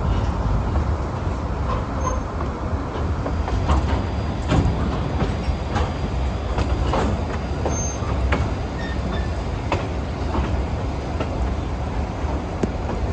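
Railroad passenger car rolling along the track: a steady low rumble with irregular clicks and knocks from the wheels, rail joints and couplings.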